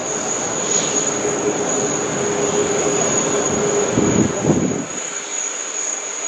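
Jet airliner engines running, a steady rumble with a low droning tone; the rumble and drone fall away about five seconds in.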